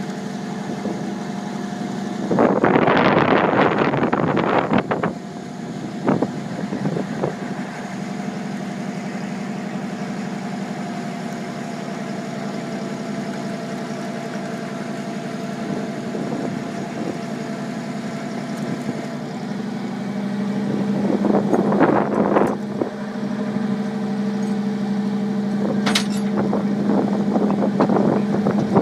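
A motor vehicle engine running steadily, a little stronger near the end, with two loud spells of rushing noise, one about three seconds in and one about twenty-one seconds in.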